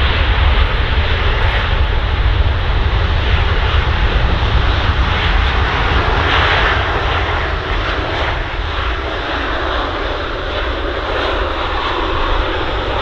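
Airbus A380 jet engines in reverse thrust after touchdown on a wet runway: a loud, steady deep rumble with a rushing noise that swells about six seconds in and then eases slightly as the airliner slows.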